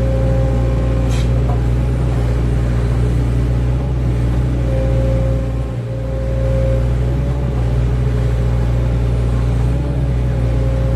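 Excavator's diesel engine running steadily under work, with a higher tone above it that comes and goes and a brief dip in level about six seconds in.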